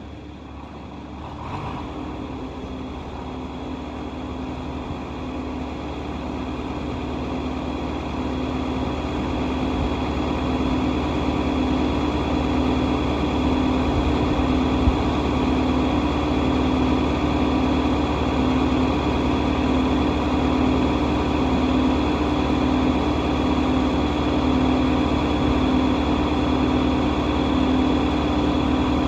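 Tractor engine running steadily, growing louder over about the first ten seconds, then holding an even drone.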